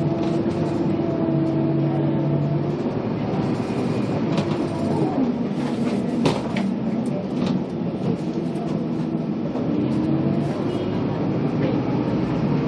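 Scania K280UB city bus's five-cylinder diesel engine running, its note dropping about five seconds in as the bus slows, then climbing again about ten seconds in as it pulls away. A single sharp knock or rattle about six seconds in.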